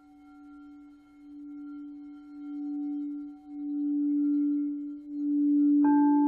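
A low crystal singing bowl sounding one steady tone that builds from faint to loud, swelling and easing about once a second. Near the end a second, higher-pitched bowl comes in sharply on top of it.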